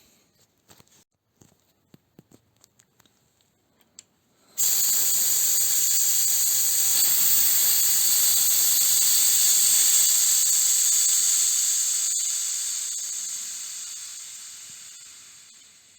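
A few light clicks, then compressed air suddenly hisses out as the last pressure is bled from the compressor's receiver. The hiss holds for several seconds, then fades slowly as the pressure drops.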